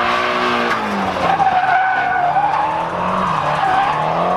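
Drift car engine held at high revs, its pitch rising and falling, with tyres skidding and squealing as the car slides sideways.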